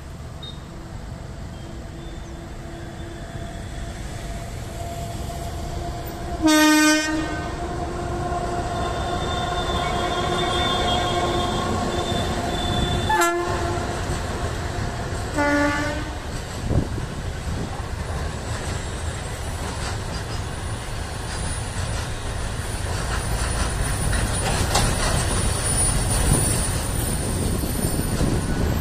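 Indian Railways WAG9 electric freight locomotive passing with a steady whine, sounding its horn: one loud blast about six seconds in and two short toots near the middle. After that, the flat wagons of the freight train roll past with a rumble and a clickety-clack that grows louder towards the end.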